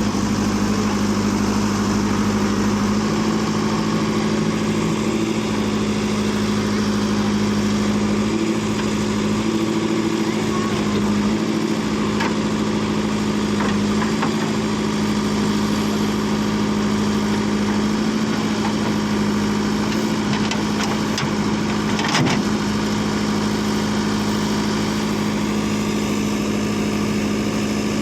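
Tractor diesel engine running steadily, its pitch shifting a little now and then, with a short knock about three-quarters of the way through.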